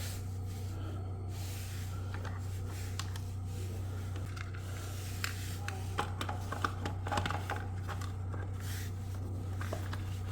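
Small clicks, taps and rustles of objects being handled, scattered and busiest past the middle, over a steady low hum.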